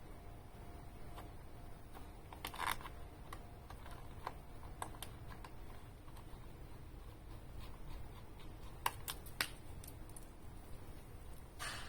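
Scattered light clicks and taps of hand work on small metal and plastic parts, a few sharper knocks among them, over a faint low hum.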